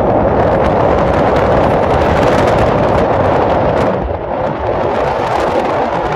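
Strong sea wind buffeting the microphone: loud, continuous rushing noise with a heavy gusty rumble, easing slightly about four seconds in.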